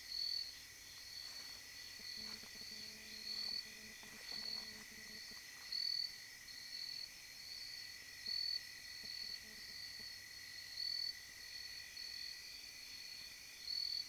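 Nighttime insect chorus: a steady, high shrill trilling, with louder chirps standing out every couple of seconds.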